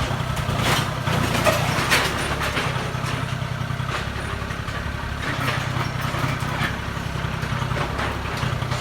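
Diesel engine of heavy earthmoving equipment running steadily, with a few brief clatters over it.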